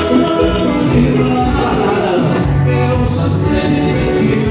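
Live forró band music with a steady beat and sustained instrumental notes, no clear lyrics.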